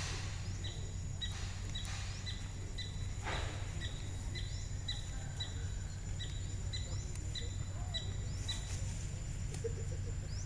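A bird repeating a short, high, falling chirp about twice a second, over a steady low outdoor rumble.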